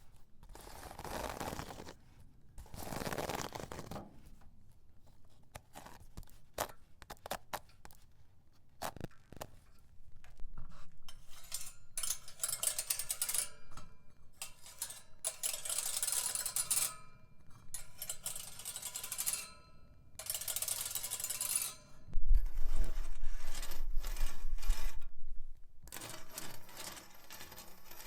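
A nail worn on a fingertip tapping and scratching a straw hat, then the bristles of a broom, then an iron plate. The bristle scratching from about 12 seconds in is dense and bright. The iron plate, about 22 seconds in, is the loudest part, with a metallic tapping and scraping and a low rumble.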